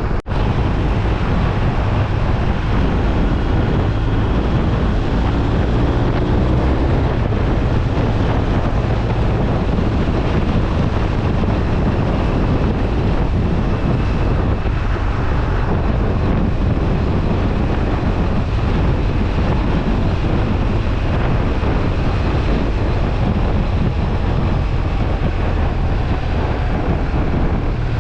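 Steady rush of wind over the camera microphone on a BMW R1250RT motorcycle riding at speed, with the bike's engine and road noise running underneath.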